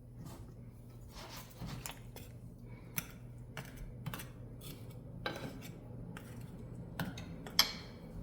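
Kitchen utensils and dishes clinking and knocking in a string of light, separate strikes, with one sharper clink near the end, over a low steady hum.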